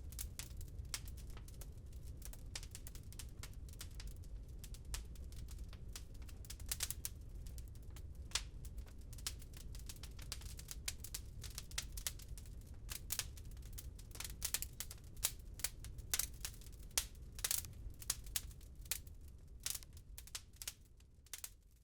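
Wood fire crackling in a fireplace: irregular sharp pops and snaps, some louder than others, over a steady low rumble. The sound fades down near the end.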